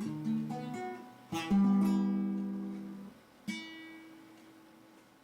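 Acoustic guitar playing the closing bars of a song, picked notes and a strummed chord, then a final chord about three and a half seconds in that is left to ring out and fade.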